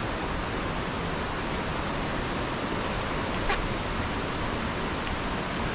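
Steady rush of flowing river water, with one short click about three and a half seconds in.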